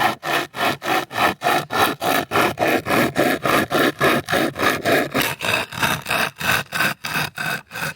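Hand saw cutting through wood with quick, even back-and-forth strokes, about four to five a second.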